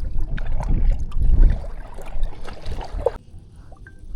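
Water sloshing and gurgling around a paddle kayak on a lake, over a heavy low rumble, with scattered small knocks. About three seconds in, it drops suddenly to a much quieter background.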